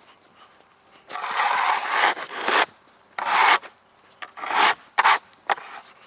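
Snow shovel scraping and pushing snow across the pond ice: one long scrape, then a shorter one and a few quick short scrapes.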